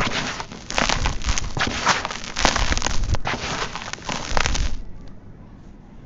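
Dry, dusty sand-cement chunks crumbling and breaking apart: a dense crackle full of sharp snaps, which stops about three-quarters of the way through and leaves only a faint low hiss.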